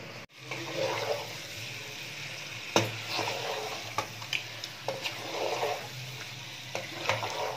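Chicken pieces frying in oil and spice paste in a pot while being browned (bhuna), stirred with a wooden spoon. There is a steady sizzle, and the spoon scrapes and knocks against the pot several times, sharpest about three seconds in.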